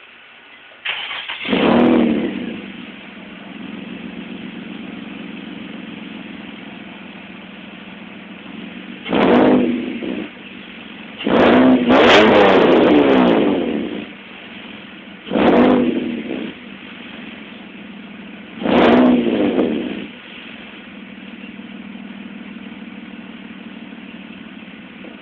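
Nissan 350Z's 3.5-litre V6 with a true dual 3-inch AAM exhaust and no catalytic converters, straight-piped through test pipes. It starts about a second in with a flare, then idles between four throttle revs, the second held the longest.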